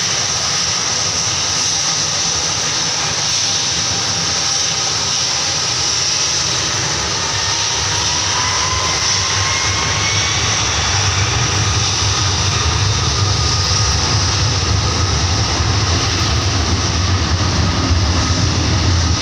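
Airbus A330's twin jet engines at takeoff power: a loud, steady roar with a faint rising whine, and a deep rumble that grows louder about halfway through.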